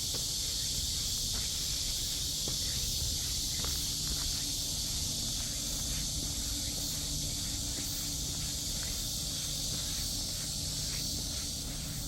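Cicadas buzzing in a steady, high-pitched chorus, with footsteps on a path beneath it.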